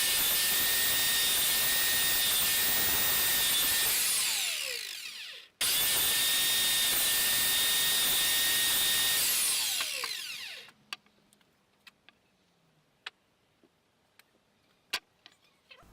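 Table saw run twice: each time the motor comes up at once to a steady high whine for about four seconds, then is switched off and winds down, the pitch falling over a second or so. A few light clicks and taps follow.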